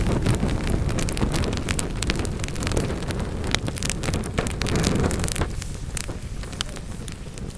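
Wood fire burning in a fireplace: a low rumble of flame with many sharp crackles and pops from the logs; the rumble eases off after about five and a half seconds while the crackling goes on.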